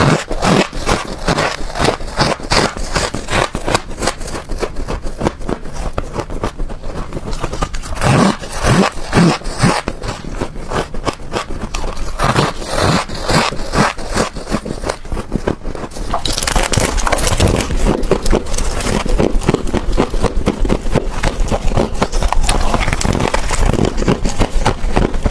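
Refrigerator frost ice being scraped and crunched close to the microphone: a dense, uneven run of gritty scrapes and crackles. It gets louder and denser, with more hiss, about sixteen seconds in.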